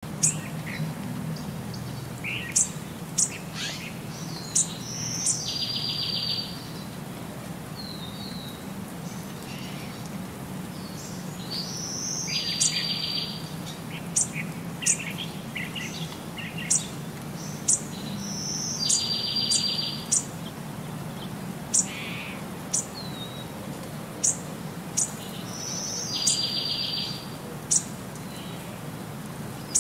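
Birds chirping and calling in a loop that repeats about every seven seconds, each cycle holding several sharp high chirps and one short buzzy trill, over a steady low hum.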